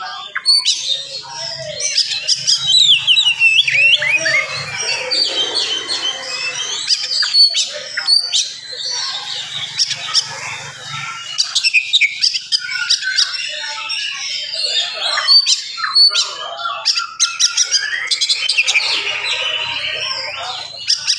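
Oriental magpie-robin (kacer) in full song: a fast, dense run of varied whistled glides and sharp clicking notes with scarcely a pause.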